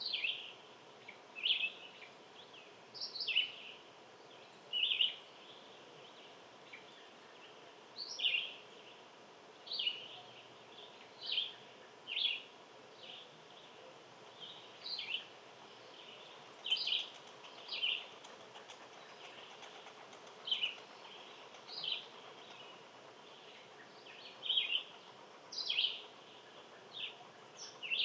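A small songbird giving short, high chirps over and over, about one every second or so, over a faint steady background hiss.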